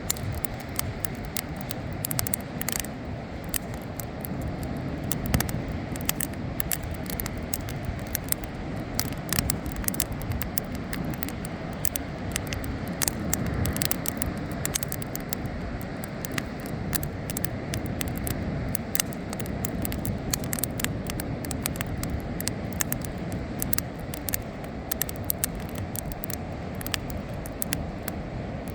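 Bonfire crackling, with frequent irregular sharp pops and snaps over a steady low rumble.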